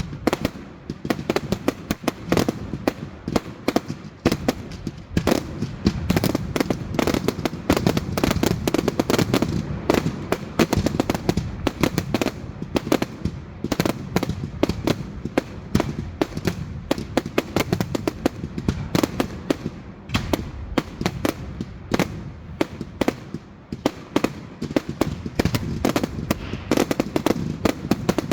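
Fireworks going off: a dense, continuous barrage of sharp cracks and bangs over a rumbling haze.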